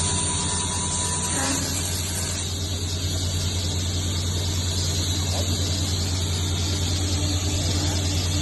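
Table saw with a Yamashin King Tiger blade running: a steady motor hum under the blade's hiss, with a thin high whine that stops about a second and a half in and the hiss easing soon after.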